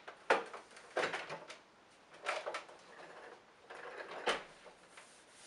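Plastic knocks, clicks and rattles from the body of a Hoover Turbopower 1 upright vacuum cleaner being handled and moved about, its motor off. Several sharp knocks stand out, the loudest about a third of a second in and near four seconds in.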